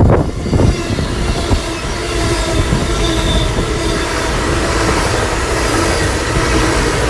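Two coupled CrossCountry Voyager diesel multiple units, a Class 221 leading a Class 220, running through the station, loud and steady, with the ringing of wheel squeal over the rumble. Low gusts of wind buffeting are heard in the first second.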